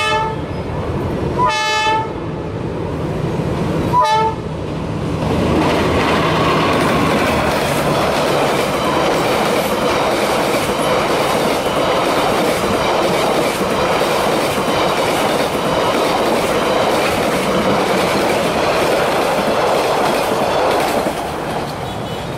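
Passenger train locomotive sounding two short horn blasts about two seconds apart, then the train passing close by with a steady rumble and clatter of wheels on the rails that fades near the end.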